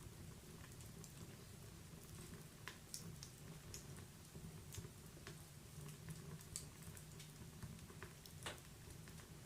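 Faint wood fire crackling in a fireplace: scattered small pops and snaps at irregular moments over a soft low rumble.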